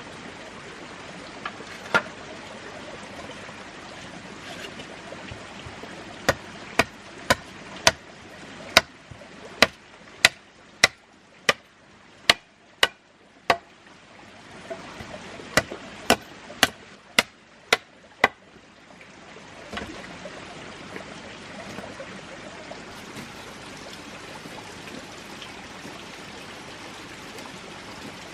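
Running water trickling steadily, with a run of about twenty sharp knocks, roughly two a second, from about six to eighteen seconds in.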